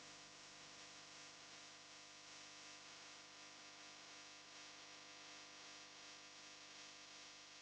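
Near silence: faint steady hiss and low electrical hum.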